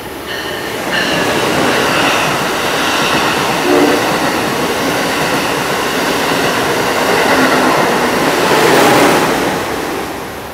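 Amtrak Acela Express high-speed trainset passing through the station without stopping: a loud rush of wheels on rail and moving air that builds in the first second, holds as the cars stream by, and fades away near the end.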